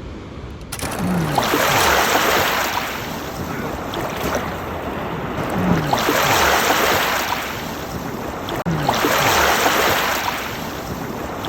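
Sea waves surging in and breaking, three swells about three to four seconds apart, each building and washing out.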